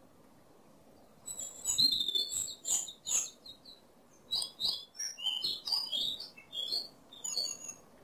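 A small bird chirping in two quick runs of short, high tweets, the first starting about a second in and the second about four seconds in.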